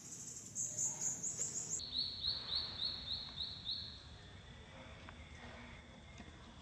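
A rapid series of short high-pitched chirps, about five a second, over a steady high whine; the chirps drop in pitch just under two seconds in and stop about four seconds in.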